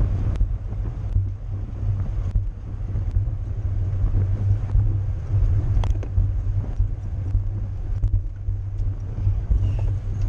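Wind rushing over the microphone of a rider's camera at racing speed on a bicycle: a steady low rumble with a few faint ticks.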